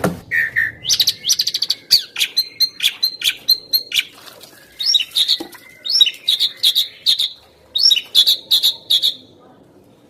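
Asian pied starling (jalak suren) singing: phrases of rapid sharp chattering notes and clicks mixed with whistles, in about four bursts with short pauses between them.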